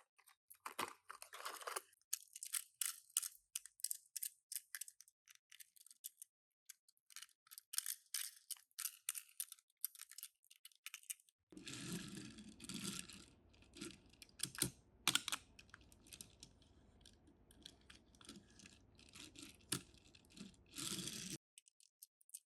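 Toy car packaging being handled: a rapid run of small clicks and crackles of cardboard and plastic, with light tearing. Near the middle a low steady background comes in under the clicks, then cuts off near the end.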